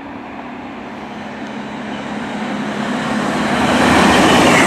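A Class 221 Super Voyager diesel train approaching at speed, its engine note and rolling noise growing steadily louder and peaking near the end.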